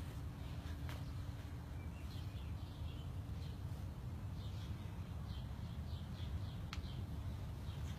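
Small birds chirping in short, scattered calls over a steady low outdoor rumble, with a couple of faint clicks.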